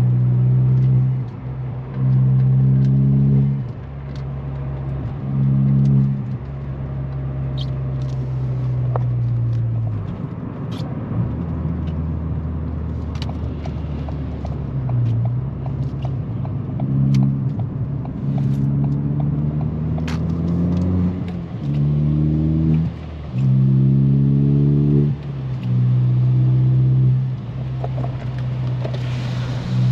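Ford Fiesta Mk7 ST's turbocharged 1.6 EcoBoost four-cylinder, fitted with an ITG induction kit and a 3-inch exhaust, running under way. It comes on the throttle in repeated loud spells of a second or two and drops back between them, with scattered short ticks over the engine note.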